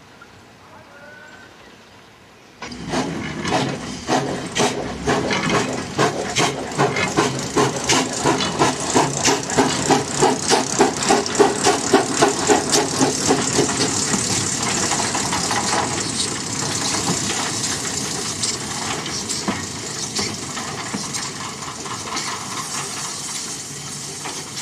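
Steam locomotive working away: exhaust chuffs start suddenly about three seconds in and quicken from about two to three a second, then run together into a steady rush of steam and running noise that slowly fades.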